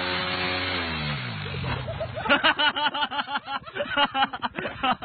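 Suzuki motorcycle engine running steadily, its pitch falling away a little after a second in. From about two seconds in, a person's voice cries out in quick repeated sounds.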